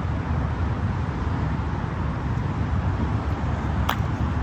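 Steady outdoor rumble and hiss, heavy in the low end, with a single sharp click near the end.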